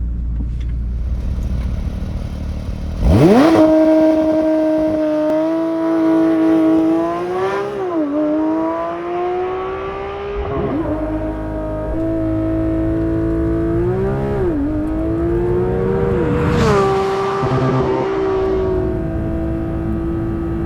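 Porsche 992 GT3's 4.0-litre flat-six, with its lightweight exhaust, flaring loudly about three seconds in. It then runs at a raised idle with a few short throttle blips that rise and fall in pitch, and settles to a steady idle near the end.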